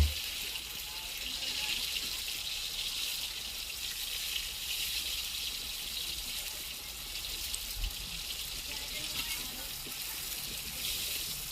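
Food frying in a hot wok: a steady, crackling sizzle.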